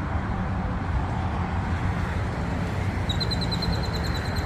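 A steady low rumble of vehicle noise. About three seconds in, a small bird gives a rapid high trill of about nine notes a second, lasting a second and a half.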